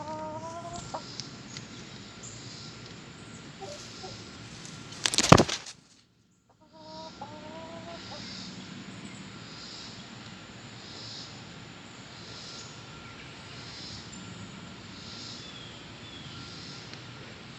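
Chickens clucking, with short calls near the start and again about seven seconds in. A single loud bump about five seconds in, after which the sound briefly cuts out.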